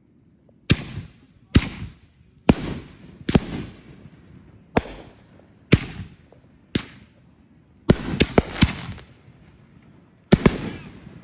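Fireworks going off: about a dozen sharp bangs at irregular intervals, each followed by a short fading tail, with a quick run of four bangs about eight seconds in and a close pair near the end.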